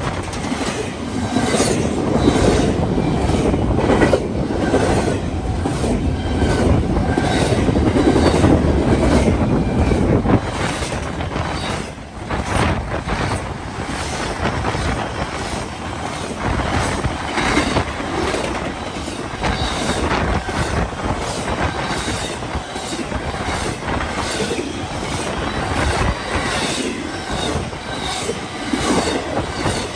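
A train rolling past, its wheels clicking steadily over the rail joints with a heavy rumble that eases after about ten seconds, as the passing cars continue.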